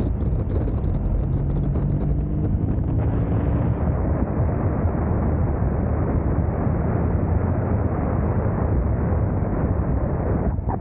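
Motorcycle riding at speed: heavy wind rumble on the camera microphone over the engine's drone, steady throughout, with a faint rising engine pitch in the first few seconds.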